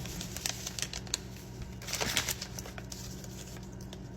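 Rapid, irregular light clicks and taps from handling food while seasoning goes into a bowl of sour-cream dip, with a denser run of taps about two seconds in. A steady low hum sits underneath.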